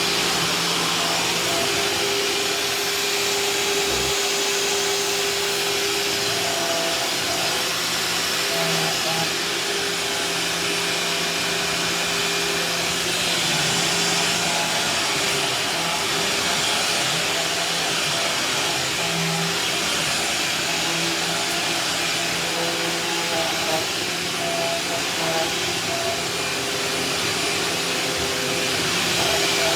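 Vacuum cleaner running steadily while a kitchen floor is vacuumed, a continuous motor noise that shifts slightly in pitch as it is worked.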